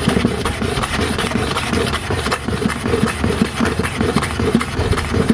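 Clipper blade rubbed rapidly back and forth under pressure on a sharpening stone with abrasive powder and oil: a steady gritty rasping.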